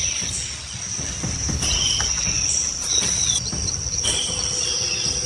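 Newly hatched toucan chicks giving several short, high squeaks over a steady high-pitched trill.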